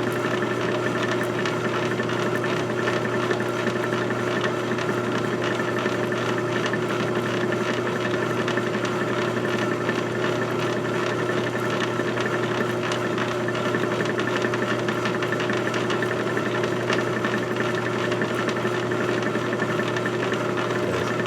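Electric drill running steadily with a very thin bit, fed slowly into the work: an even motor hum with a constant tone.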